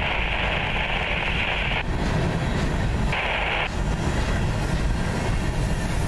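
Tail end of a freight train of covered hopper cars rolling past and away, with a steady low rumble that carries on after the last car has gone by. A higher hiss over it cuts out about two seconds in and comes back briefly a little after three seconds.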